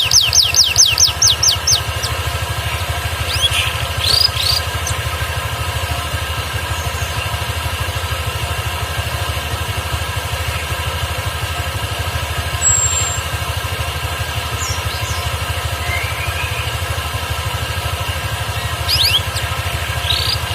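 Canary singing in short phrases: a fast trill of rising high notes for the first two seconds, a few short chirps a couple of seconds later, and scattered faint notes and another brief burst near the end. It is a canary that had gone quiet and is starting to sing again. A steady engine-like hum runs underneath.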